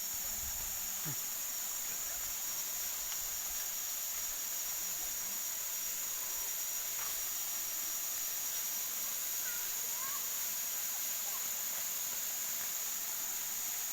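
Steady rushing hiss of a waterfall, with a high, steady insect drone over it.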